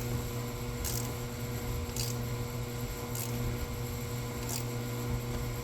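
Hand ratchet clicking as a nut is snugged down: four short, separate clicks about a second apart, over a steady low electrical hum.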